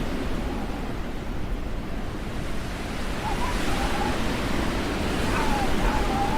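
Wind in a snowstorm rushing across the microphone: a steady, loud noise, with a faint wavering tone heard twice in the second half.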